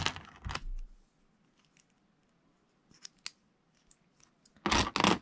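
Plastic Lego bricks clicking as pieces are handled and pressed together: a cluster of clicks at the start, a few faint clicks in the middle, and a louder rattle of pieces near the end.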